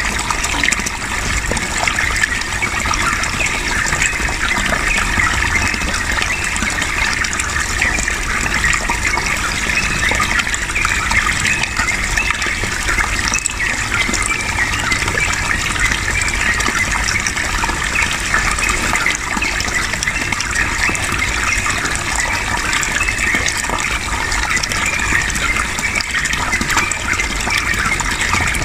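Steady rush of running water, even throughout with no breaks.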